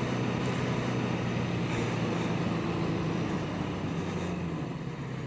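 Yamaha 750 Seca's air-cooled inline-four engine running at a steady note while the bike is ridden, with wind rush on the bike-mounted microphone; the sound eases off slightly toward the end.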